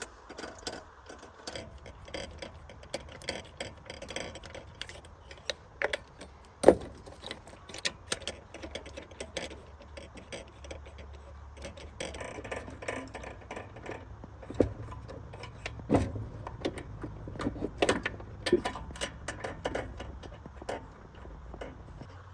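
Irregular metallic clinks and knocks of hand tools being worked on car parts, with one sharp knock about seven seconds in.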